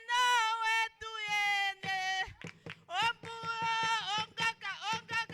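A high-pitched voice singing two long held notes, then quicker repeated sung syllables at about the same pitch.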